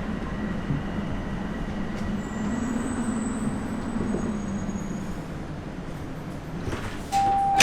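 Bombardier Toronto Rocket subway train, heard from inside the car: a steady low rumble with a faint high whine in the middle. Near the end there is a click, then a steady electronic chime tone.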